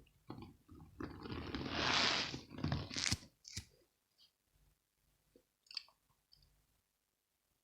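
Cornstarch balls being squeezed and crumbled by hand, a dense run of crunchy squeaks for about three and a half seconds, then a few scattered small crackles that die away.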